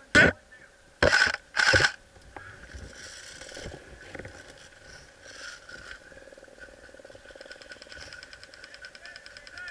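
Airsoft gun firing three short loud bursts close to the microphone, the first right at the start and two more about a second later in quick succession.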